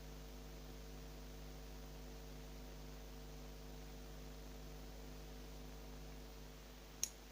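Car engine cooling fan's electric motor running steadily at full power on about 16 V, a low even hum made of several tones. A single sharp click comes near the end.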